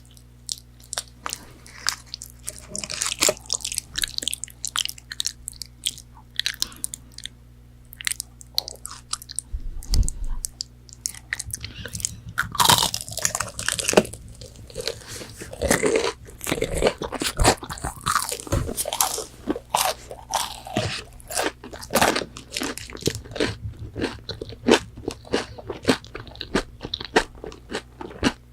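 Close-up crunching, biting and chewing of crispy fried chicken nuggets, with many sharp irregular crackles throughout.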